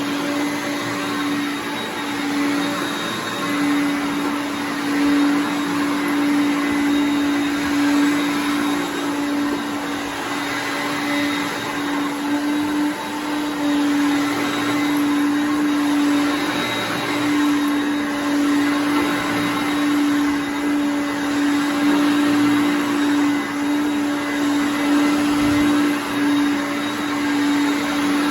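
1981 Hoover Concept One self-propelled upright vacuum cleaner running on carpet: a steady motor hum with an even pitch over the rush of air.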